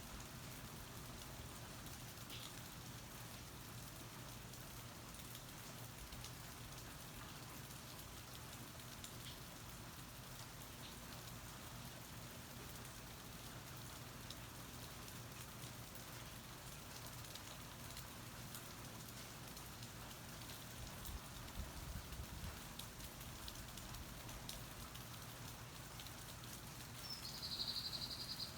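Steady rain falling, with scattered drops ticking on a surface. Near the end a short high-pitched tone lasts about a second and a half.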